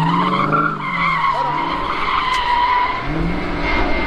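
Car tyres squealing in a long, steady squeal as a car is driven hard on the spot, with its engine revving underneath.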